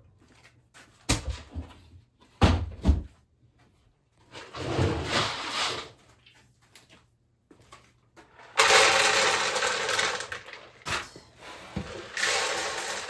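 Horse grain being handled at a feed bin: a few sharp knocks of lids or containers, then grain pouring into a bucket in rushing spells. The longest and loudest pour starts about eight and a half seconds in.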